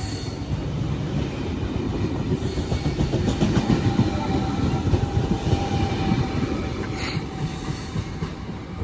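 Four-car electric suburban train running past, its wheels clattering over rail joints under a steady low rumble, with a thin steady whine; loudest about halfway through.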